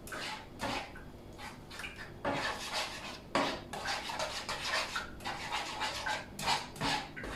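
A utensil stirring and scraping scrambled eggs with tomatoes in a frying pan, in a series of irregular short strokes.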